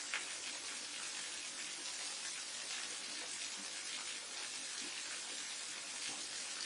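Forest waterfall and mountain stream: a steady rush of falling, splashing water, with one brief louder splash just after the start.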